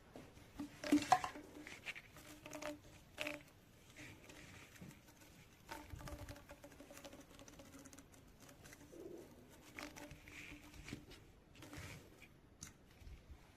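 Faint clicks, taps and rustling of objects being handled, with a faint low hum for a few seconds in the middle.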